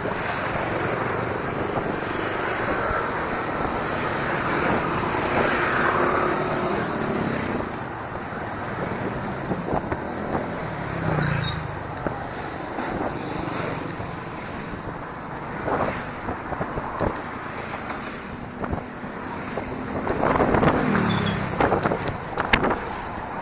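Motor traffic on a road, with vehicles passing about five seconds in and again about twenty seconds in, heard over steady wind rush on the microphone. A few knocks come near the end.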